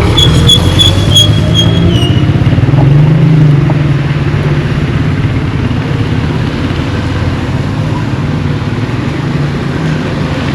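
Motor vehicle engine running close by, a steady low drone. A thin high whistle-like tone sounds over it for about the first two seconds.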